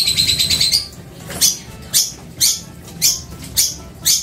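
A bird calling: a fast high trill that stops about a second in, then a run of short, sharp, high chirps about two a second.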